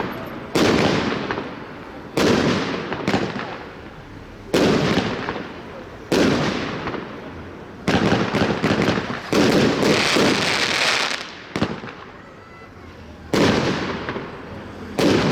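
Triplex Enduro firework battery firing: sharp reports come one every second or two, each trailing off in an echo. Near the middle there is a denser run of reports.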